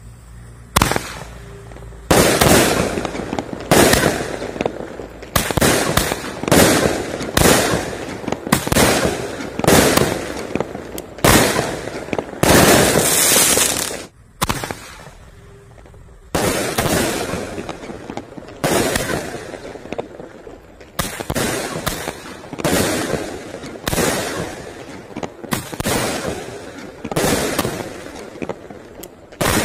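Multi-shot fireworks cake firing: a rapid run of loud launch reports and aerial bursts, about one a second, with one longer hissing burst and then a short lull about 14 seconds in before the shots resume.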